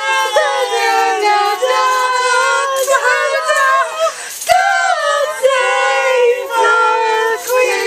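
High young voices singing a slow tune in long held notes that slide between pitches, at times two voices together, with a brief break about halfway through.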